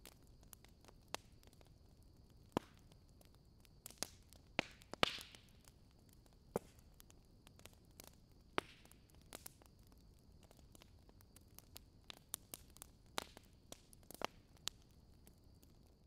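Wood fire crackling: irregular sharp pops and snaps, with one longer hissing flare about five seconds in, over a faint steady high whine.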